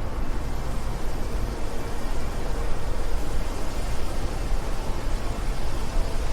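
Steady wind: an even rushing noise with a strong low rumble.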